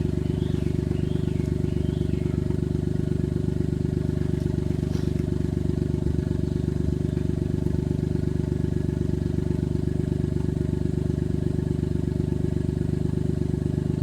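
Suzuki Jimny JA11's engine running at a steady, unchanging speed, a continuous low drone.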